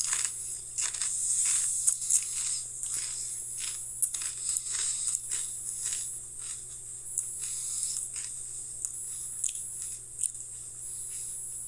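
Pringles crisps being bitten and chewed: a run of short, irregular crunches, several a second.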